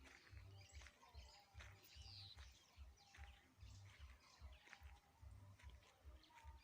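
Faint bird chirps and calls scattered through a quiet rural background, with soft low thuds recurring about twice a second.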